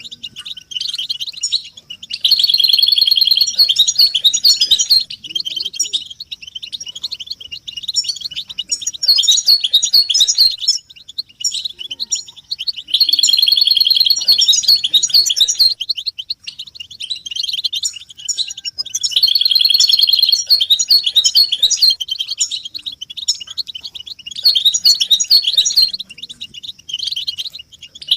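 European goldfinches twittering and singing: bursts of rapid, high trilled chatter every few seconds, with quieter twittering between them.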